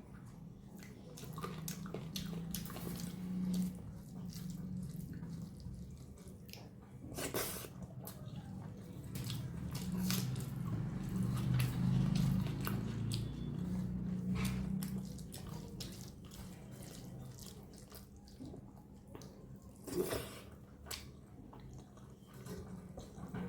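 Close-miked wet eating sounds: chewing, lip smacks and small wet clicks scattered throughout. A low-pitched sound comes and goes under them, loudest about twelve seconds in.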